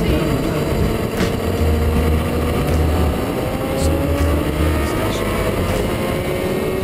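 Motorcycle engine running at speed on a race track, its pitch rising and falling slowly as the revs change, under heavy wind rush on the onboard camera.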